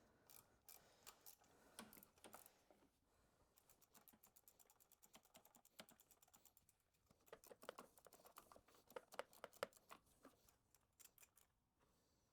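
Faint quick clicking of a hand ratchet in runs as the AC compressor's Allen bolts are backed out. There are a few louder clicks and tool knocks partway through.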